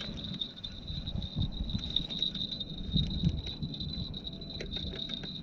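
Steady high-pitched trilling of insects in the background, over an uneven low rumble.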